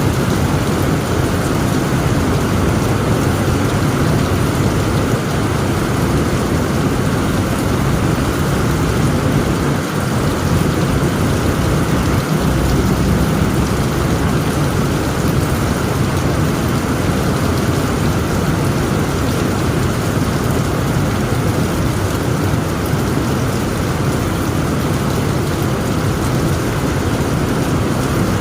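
Heavy rain falling steadily on a tent roof, with a continuous low rumble of thunder underneath and no sharp claps.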